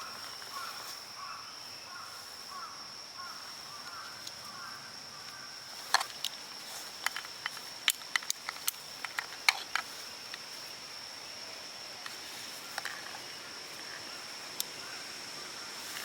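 Forest ambience with an insect's steady high-pitched buzz, joined by a rapid repeated chirping during the first few seconds. From about six to ten seconds in comes a run of sharp clicks and snaps.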